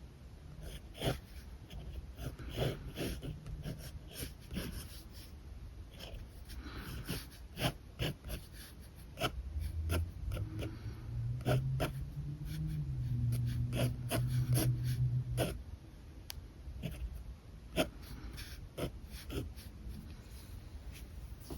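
Alcohol markers working on paper: short scratchy strokes and many sharp clicks and taps of the pens. A low steady hum runs for a few seconds around the middle.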